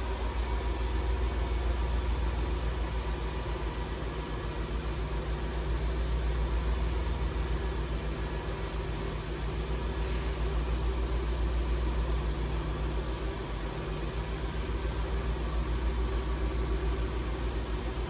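2002 Lexus LS430's 4.3-litre V8 idling steadily just after a cold start, as a low, even rumble.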